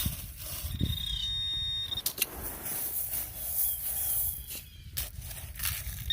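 Metal detector giving a steady high beep for just under a second, starting about a second in, on a shallow target that the operator takes for a pull tab or a piece of aluminum can. Cicadas buzz in the background, with a few sharp clicks.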